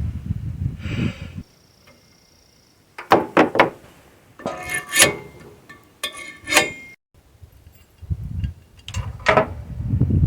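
Metal sawmill parts clinking and clanking as they are handled and fitted together: a cluster of sharp knocks with a short metallic ring, in the middle of the clip.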